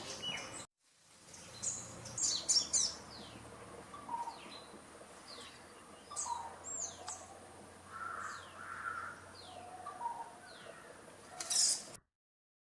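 Small birds chirping: short downward-sliding chirps about once a second, with a cluster of louder calls about two seconds in. The sound cuts off suddenly near the end.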